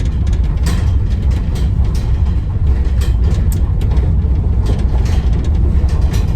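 Delivery van driving: a steady low rumble of engine and road noise heard inside the cab, with light scattered rattles.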